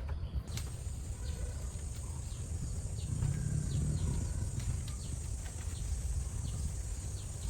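Outdoor rural ambience: a steady high hiss that comes in about half a second in, a low rumble underneath, and many short, faint bird-like chirps scattered throughout.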